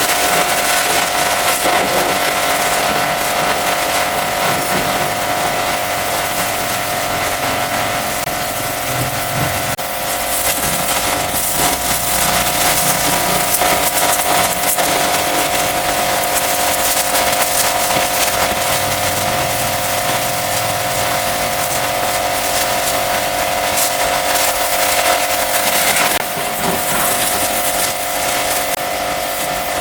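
High-pressure washer running: a steady motor whine under the continuous hiss of the water jet.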